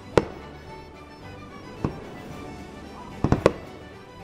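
Aerial fireworks exploding: five sharp bangs, one just after the start, another near two seconds in, then a quick cluster of three about three and a half seconds in. Music plays faintly underneath.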